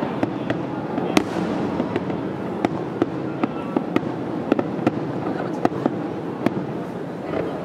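Fireworks display: about a dozen sharp bangs and cracks at irregular intervals over a constant background din.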